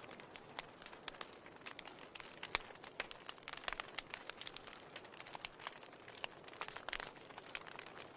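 Wood fire in a fireplace crackling, with irregular sharp pops over a soft, steady hiss.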